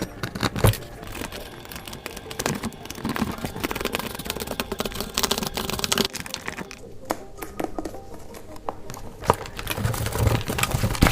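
Hands handling small plastic parts, a servo and its 3D-printed mount: irregular clicks, small knocks and crinkling rustles.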